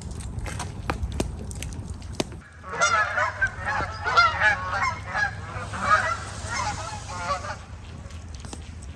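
A flock of geese honking: many overlapping honks from about three seconds in, thinning out after about seven and a half seconds. Before the honking starts there are a few sharp clicks over a low rumble.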